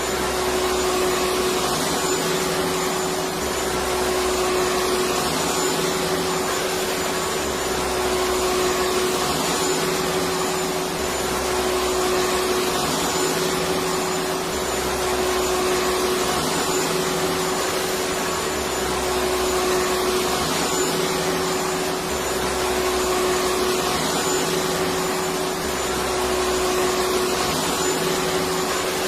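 Electric vacuum cleaner running continuously: a steady rushing hiss over a constant motor hum, with a low rumble that swells and fades at an even pace every few seconds.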